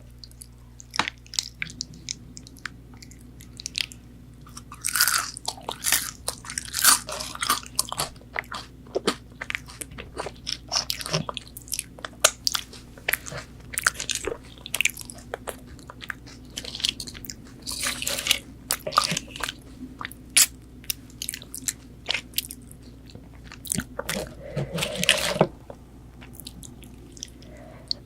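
Bites and chewing of crispy McDonald's chicken nuggets: crunching coating and mouth sounds in uneven bursts, heaviest around a quarter of the way in, midway and near the end.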